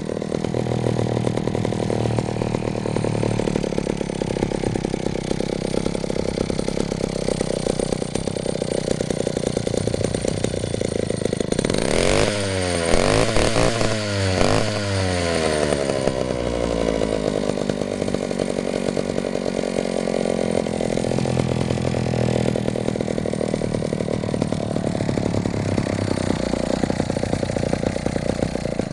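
Vintage McCulloch D-36 chainsaw's two-stroke engine running steadily. About halfway through, it is revved up and back down three times in quick succession before settling back to a steady run.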